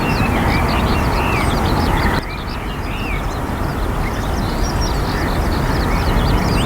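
Many small birds chirping and chattering over a steady low rumbling background noise. About two seconds in the sound cuts abruptly to a slightly quieter take of the same mix.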